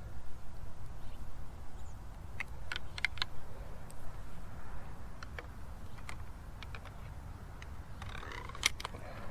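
Scattered light clicks and rattles of equipment being handled, with a cluster a few seconds in and a sharper click near the end, over a steady low rumble.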